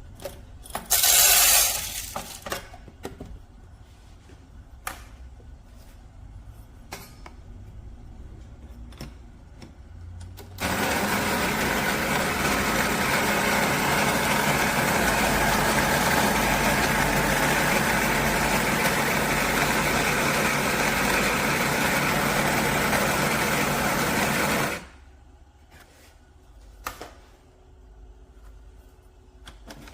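CASABREWS espresso machine with built-in grinder, its motor running steadily for about fourteen seconds and then stopping abruptly. Before it come scattered clicks and knocks of the machine being handled, and a short loud burst of noise about a second in.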